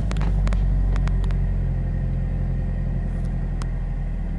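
Subaru Impreza WRX STi's turbocharged flat-four boxer engine idling just after a start, its fast idle easing from about 2,000 rpm toward about 1,200 rpm, heard from inside the cabin.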